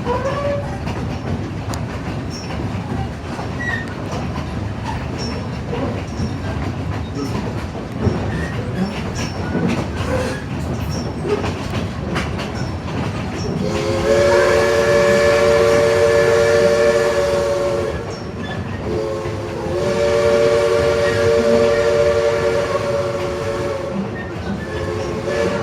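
Train running on rails with a steady rumble and scattered wheel clicks, then East Broad Top steam locomotive No. 16's chime whistle blows two long blasts of about four seconds each, with a third starting near the end.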